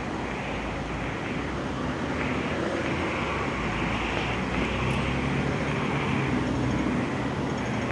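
Steady road-vehicle noise: a low engine hum under continuous tyre and road noise.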